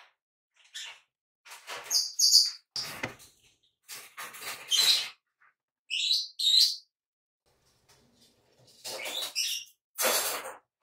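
Small birds chirping in short, separate calls, some of them quick high chirps. Between the calls are short scratching noises of a ballpoint pen writing on paper.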